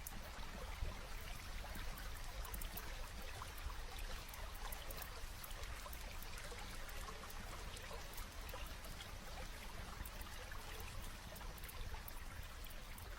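Steady rain mixed with a crackling fire: an even hiss of rainfall dotted with many small, quick pops and crackles, over a low rumble.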